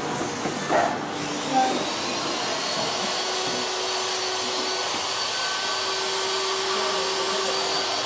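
Electric power tool motor running steadily with a faint whine, after two short knocks in the first two seconds.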